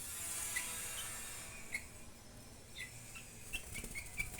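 Young sooty-headed bulbul chick giving short, thin chirps, a few spaced ones at first and then coming quicker near the end, with a light hiss during the first second or so and a few faint clicks.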